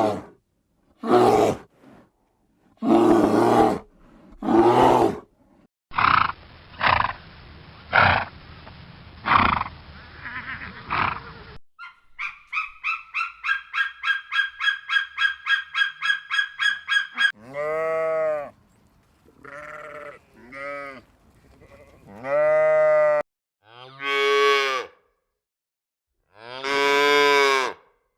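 Farm animal calls from several recordings cut one after another: a few separate loud calls, a series of calls about a second apart, a quick run of short pitched calls about five a second, then long drawn-out livestock calls.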